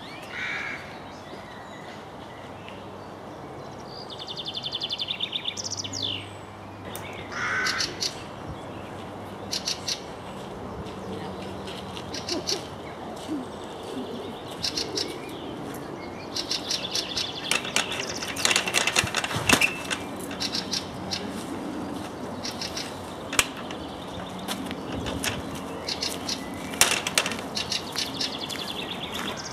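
Wild birds singing and chirping: scattered short chirps and quick trills, with a few sharp clicks in the second half.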